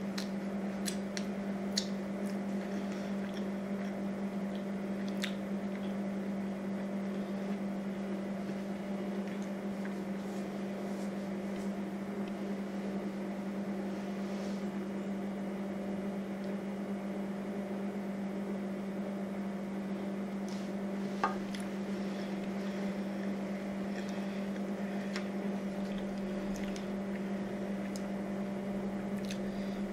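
A steady low hum under faint, scattered wet chewing and mouth clicks from eating a bacon cheeseburger, with one sharper click about two-thirds of the way through.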